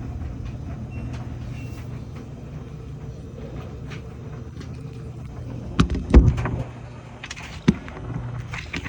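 LG clothes dryer running with a steady low buzz. About six seconds in come a few loud knocks and thumps, then one more sharp knock about a second and a half later.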